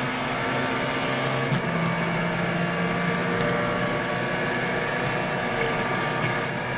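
Classic Mini race car's four-cylinder A-series engine running steadily at speed, heard from inside the stripped, roll-caged cockpit, with a short break in the note about a second and a half in.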